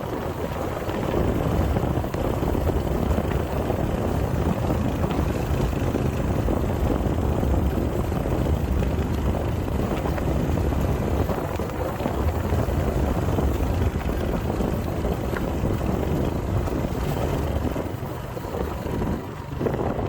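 Motorcycle engine running while riding along a road, with wind rushing over the microphone.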